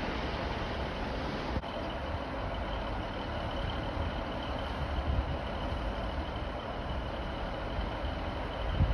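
Distant approaching train, a low steady rumble with outdoor background noise, and a brief dropout about a second and a half in.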